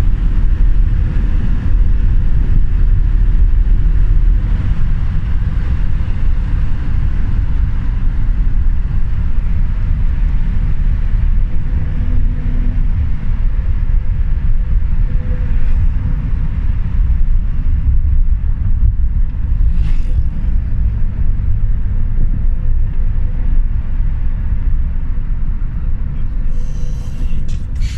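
Steady low rumble of a moving vehicle's road and engine noise, heard from inside the vehicle, with a couple of brief clicks near the end.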